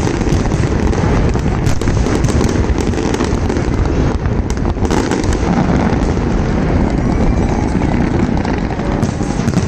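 Fireworks display going off continuously: a dense, steady low rumble of overlapping bursts with many sharp bangs and crackles on top.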